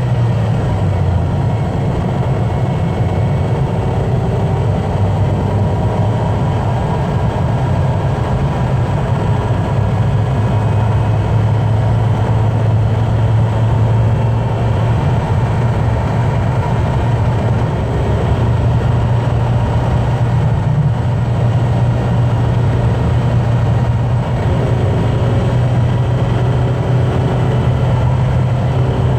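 A car running at motorway speed: a steady engine drone over tyre and road noise. The drone drops a little in pitch about a second in, then holds.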